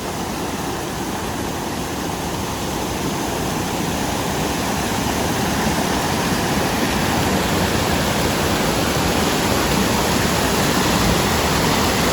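Waterfall rushing: a dense, steady roar of falling water that gradually grows louder.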